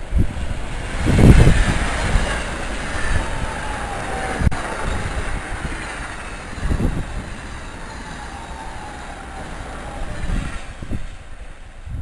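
A train passing by on the tracks: a steady rushing rumble with a faint whine that slides down in pitch as it goes by, and a loud low rumble about a second in.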